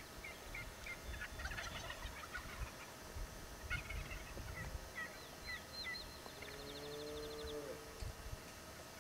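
Wild turkey toms gobbling from the roost, twice in the first half, with small songbirds chirping and trilling around them.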